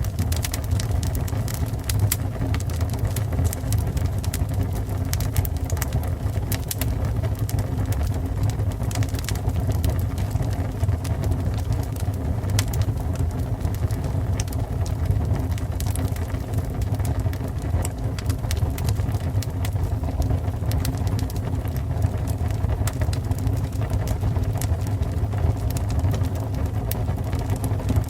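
A fire burning, with a steady low roar and frequent sharp crackles and pops scattered throughout.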